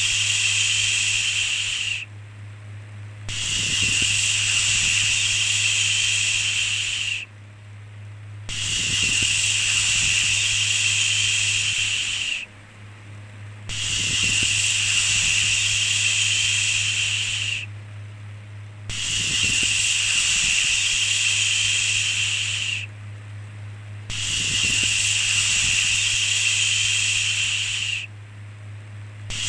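Long shushing "shhh" sounds, each lasting about four seconds, repeated roughly every five seconds with short pauses between. A steady low hum runs underneath.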